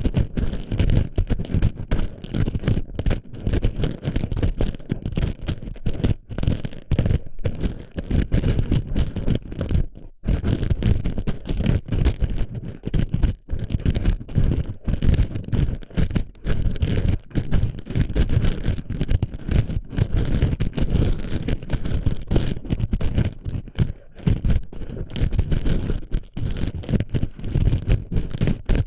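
Plastic BB pellets being pressed and rolled around the ear of a binaural microphone: close, dense scratchy rustling and rattling with a heavy low rumble from handling, broken by frequent brief pauses.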